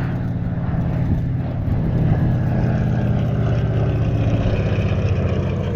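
Lockheed 12A Electra's twin Pratt & Whitney Wasp Junior radial engines droning steadily in flight, growing a little louder about two seconds in.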